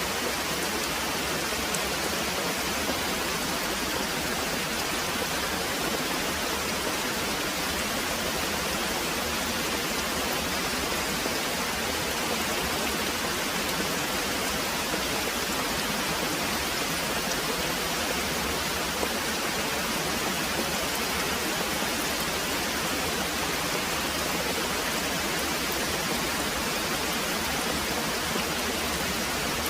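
Very heavy rain pouring steadily, a dense, even hiss with no single drops or thunder standing out.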